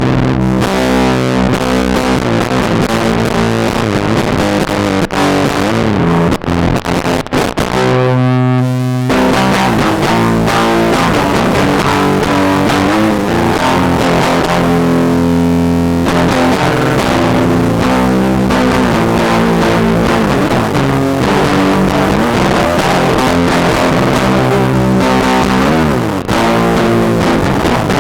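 Electric guitar played through a homemade distortion effect circuit-bent from a Whisper 2000 hearing aid's amplifier: loud, continuous distorted playing with chords and held notes.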